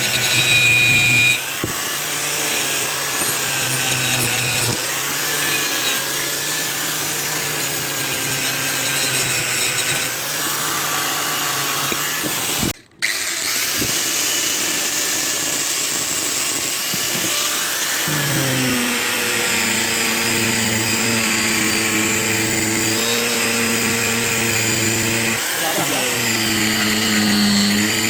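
Electric buffing machine running steadily as it polishes a Honda CD 70 aluminium engine side cover, its motor hum shifting in pitch now and then, with a brief dropout about halfway through.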